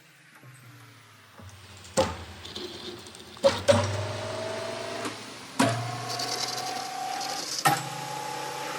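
Metalworking machine running with a steady hum and a higher whine that change pitch, broken by sharp clanks about two, three and a half, five and a half and seven and a half seconds in.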